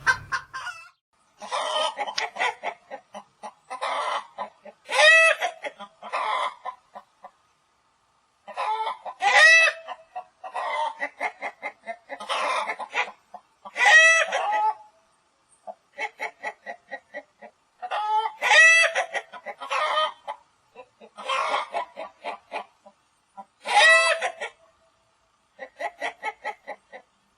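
Hen cackling: runs of short clucks that build to a loud, drawn-out squawk, repeated about every four to five seconds with brief pauses between.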